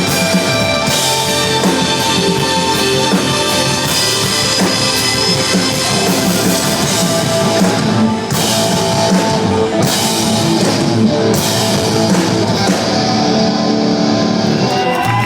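Rock band playing live, with drum kit and guitars.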